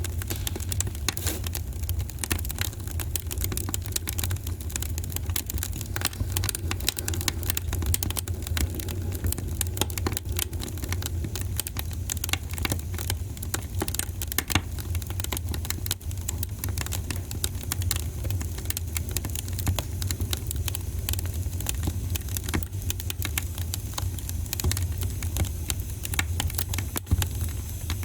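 Wood fire in a fireplace crackling steadily, with many small irregular pops and snaps over a constant low rumble.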